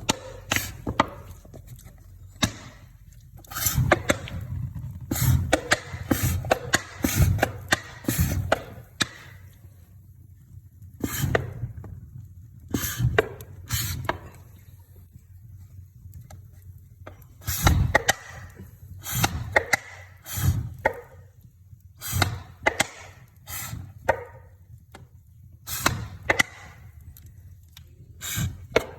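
Wood fire in a fireplace crackling and popping, with sharp irregular pops coming in clusters, some of them loud, and short quieter gaps between; the logs are wet.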